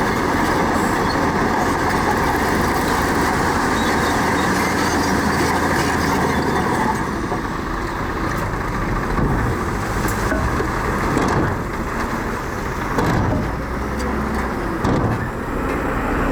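Heavy diesel engine of earthmoving machinery running steadily, easing off slightly and turning more uneven about seven seconds in.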